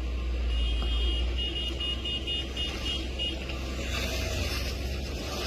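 Low rumble of a vehicle on the road, with a rapid series of high electronic beeps lasting about three seconds, then a rising hiss near the end.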